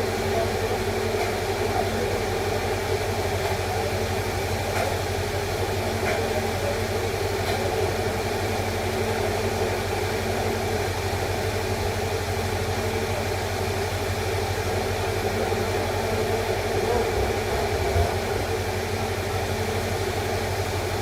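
Steady machine hum with a constant hiss, unchanging in level.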